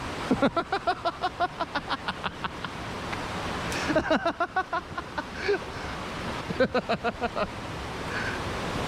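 Steady rush of river water, with three bursts of rapid, repeated voice sounds from people, the first lasting a couple of seconds.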